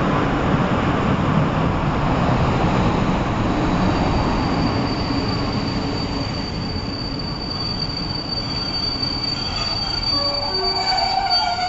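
Passenger coaches of an arriving train rolling past and slowing along the platform: a rumble of wheels, then a steady high squeal from about four seconds in, with a few shorter squeals near the end.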